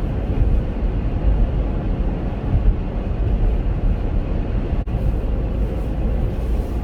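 Steady in-cabin road and engine rumble of a Chevrolet Captiva driving on snowy roads, low and constant with tyre noise.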